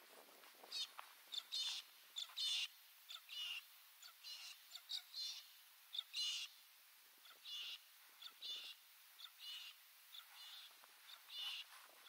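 Birds calling in the bush: a run of short, warbling high chirps, roughly two a second, each one separate.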